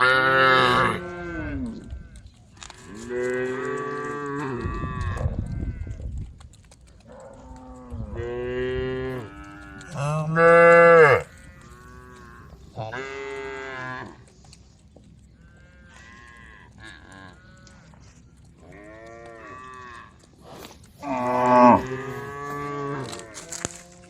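Cows mooing over and over, about eight long moos in a row, some from different animals and overlapping, the loudest about eleven and twenty-one seconds in.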